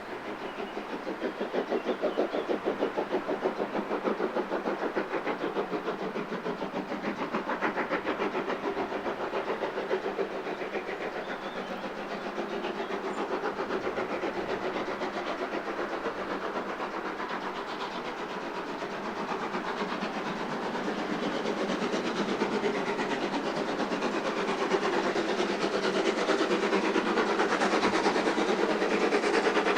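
Train running on the tracks: a fast, even clatter that dips in loudness midway and swells again near the end.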